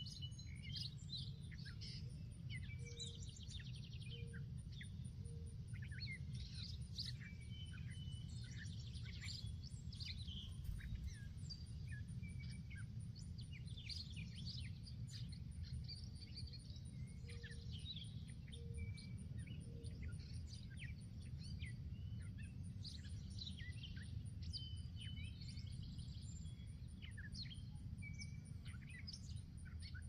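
Several birds chirping and singing, with quick high chirps and trills overlapping throughout, over a steady low rumble. Twice, a short run of three or four evenly spaced lower notes sounds, a few seconds in and again past the middle.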